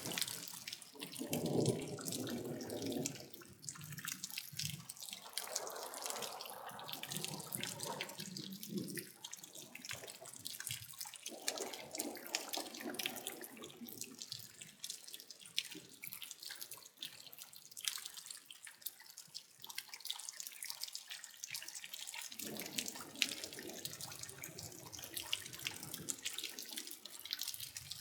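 Water falling in many small drops, a dense, irregular dripping. Four times it swells for a few seconds into a fuller splashing rush.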